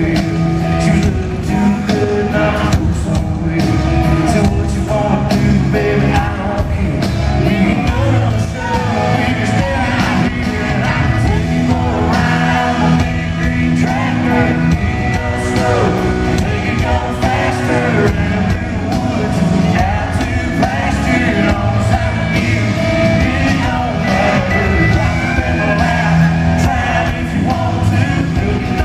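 Loud live country-rock band with a male lead singer performing, over a steady drum beat, with fans yelling along.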